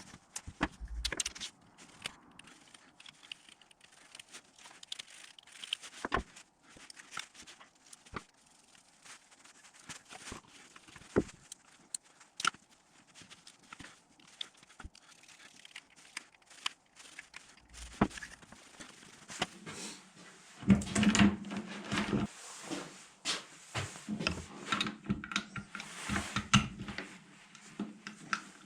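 Scattered clicks, scrapes and knocks of things being handled. About two-thirds of the way through, a steady low hum starts, with denser clicking over it.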